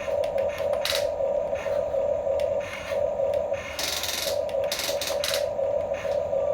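Small electric motors and plastic gearboxes of RC construction toys whining steadily with a pulsing tone. Clicks and scraping noises come in bursts, the loudest about a second in and again about four to five seconds in.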